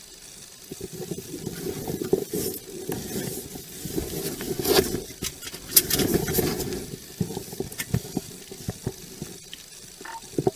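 Rustling and scraping handling noise with scattered clicks and knocks, the sound of clothing and gear rubbing on a body-worn camera's microphone as the wearer moves. It grows about a second in, is loudest in the middle, and eases off near the end.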